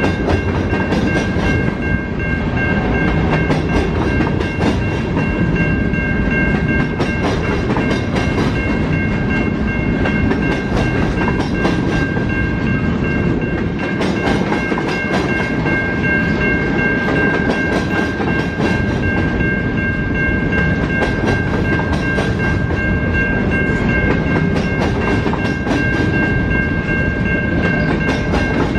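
A train rolling steadily past on the tracks, its wheels clacking over the rail joints, with a steady high-pitched ringing tone throughout.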